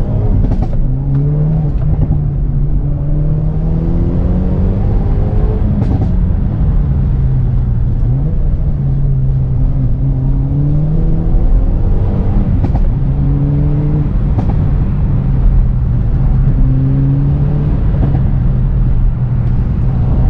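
Hyundai Veloster N's turbocharged 2.0-litre four-cylinder engine driving on the road, its pitch climbing under acceleration and dropping back several times as it goes through the gears. A few brief knocks come through along the way.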